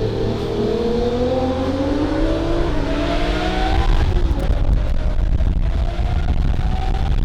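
A high-performance car engine accelerating hard, its pitch climbing for about four seconds, then dropping sharply at a shift or lift and climbing again more faintly, over a dense low rumble.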